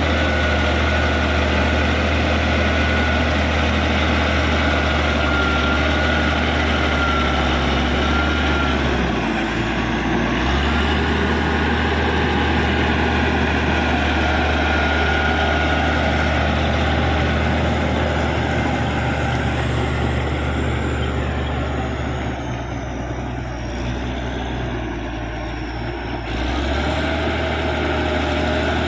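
Caterpillar D6G bulldozer's diesel engine running steadily at work. It dips briefly about a third of the way in and goes quieter for a few seconds near the end before picking up again.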